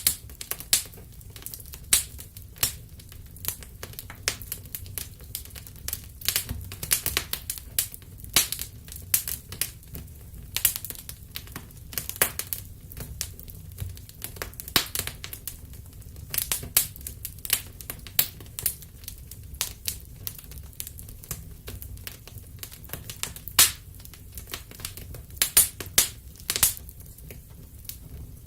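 Wood fire crackling and popping: irregular sharp snaps several times a second over a low rumble of burning.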